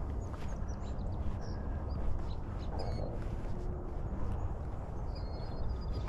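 Scattered short bird chirps and calls over a steady low rumble on the microphone, with one longer high note about five seconds in.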